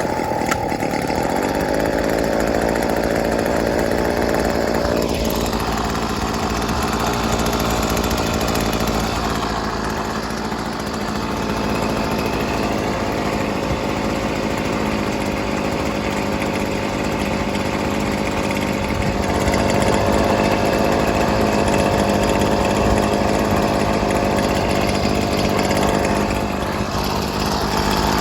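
Hitachi RB24EAP handheld leaf blower's 23.9 cc two-stroke engine running just after a cold start. Its pitch drops about five seconds in, then it runs steadily.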